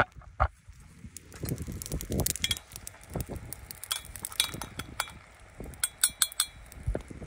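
Metal utensil clinking against a cooking pot: an irregular series of light clicks and clinks, several with a brief metallic ring.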